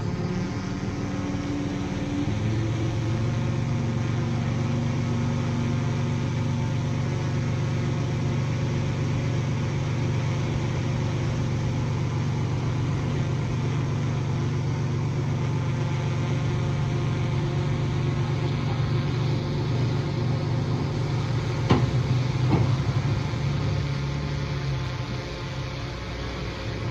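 Komatsu D20A bulldozer's diesel engine running steadily, its pitch changing about two seconds in. Two sharp knocks come close together near the end.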